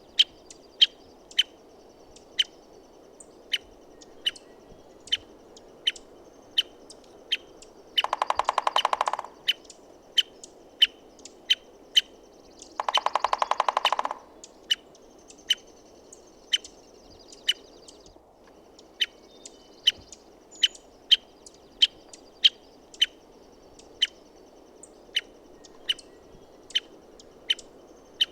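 American three-toed woodpecker giving a sharp call over and over, roughly once or twice a second, and drumming twice: two bursts of rapid strokes on wood, each about a second long.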